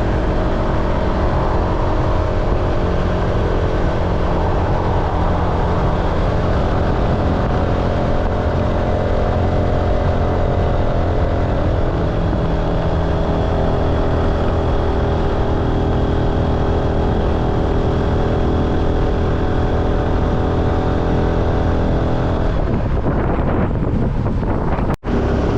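Car engine and road noise running steadily while driving, a constant drone with no change in speed. The sound shifts about three seconds before the end and then cuts out briefly.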